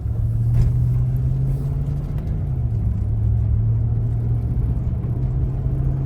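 Engine and road noise inside a moving car's cabin: a steady low hum whose pitch drops a little about two and a half seconds in and rises again near the end.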